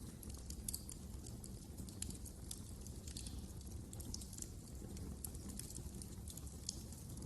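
Wood fire crackling and popping in a fireplace: irregular sharp snaps over a low steady rumble of burning.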